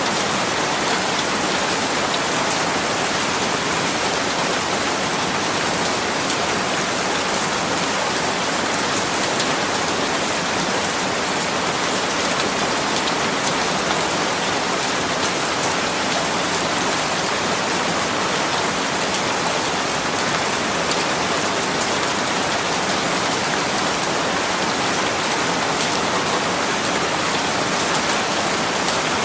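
Steady rain falling, an even hiss with dense fine patter of drops hitting a surface.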